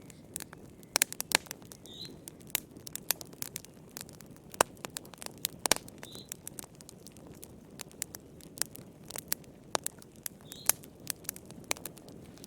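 Wood fire crackling in a fireplace: irregular sharp pops and snaps, several a second and some much louder than the rest, over a soft low rumble of the flames. A faint short high squeak comes three times.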